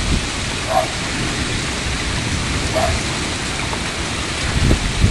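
Heavy rain pouring down in a steady, dense hiss of downpour. Two short, faint chirps stand out briefly, about a second in and again near three seconds.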